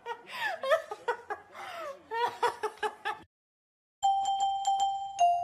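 A woman laughing and giggling in short, high, squealing bursts for about three seconds. The sound cuts off, and after a second of silence, music with chiming, bell-like notes starts near the end.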